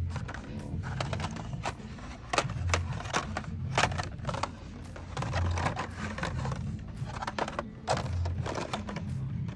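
Blister-packed die-cast toy cars clacking and crinkling as they are flipped through and handled on store pegs: a run of irregular plastic clicks and knocks.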